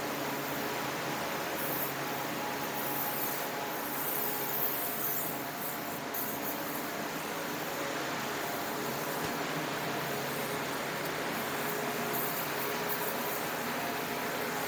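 Steady rushing mechanical noise with a faint hum, with brief hissy sounds on top now and then.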